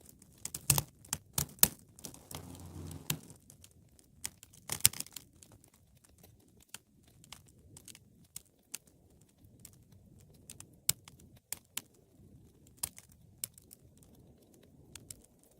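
Wood fire crackling, with sharp pops that come thick and loud in the first few seconds, then thin out to scattered snaps over a faint low rustle of flame.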